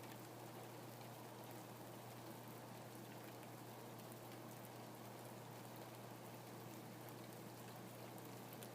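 Faint, steady rain with scattered light drop ticks and a steady low hum underneath.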